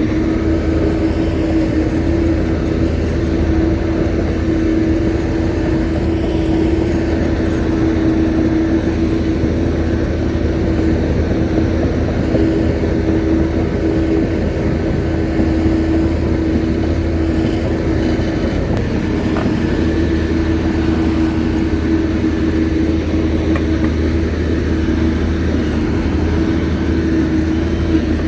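Shantui bulldozer's diesel engine running steadily, a constant pitched hum over a low rumble.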